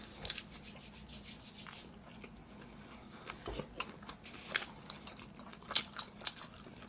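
Close-miked chewing of a mouthful of stir-fried pork, heard as scattered short wet clicks and smacks that grow denser and louder in the second half.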